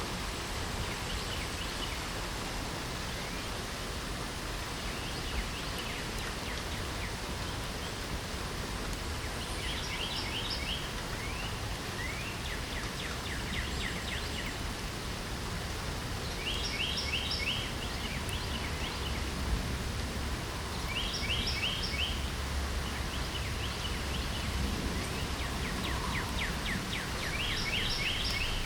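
Steady rain hiss with a low rumble beneath it, while a bird sings short, rapid chirping phrases that come back every three to four seconds.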